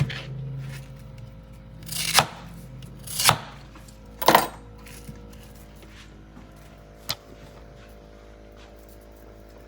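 Renta yam being cut into pieces with a knife: three or four chopping knocks about a second apart, then a single sharp click near the end.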